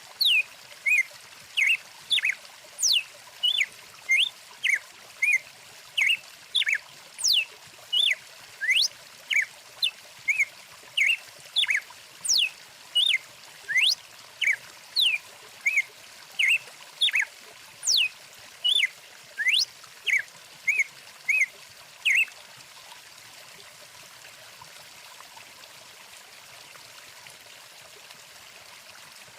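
A songbird calling in a long run of short whistled notes, about two a second, many sweeping sharply up or down, over the steady rush of a stream. The bird stops about two-thirds of the way through, leaving only the water.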